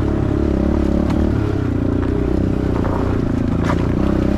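Pit bike's small single-cylinder engine running under way, its pitch rising and falling a little with the throttle, with a couple of sharp knocks.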